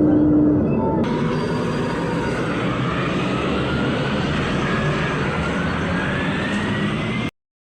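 Scania Castrosua New City CNG city bus pulling away and accelerating: a steady engine noise with a whine that rises slowly in pitch as it gathers speed, cut off abruptly near the end. A steady tone in the first half second stops suddenly.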